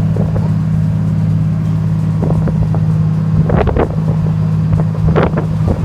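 Fishing boat's engine running at a steady low drone, with a few brief sounds over it about three and a half and five seconds in.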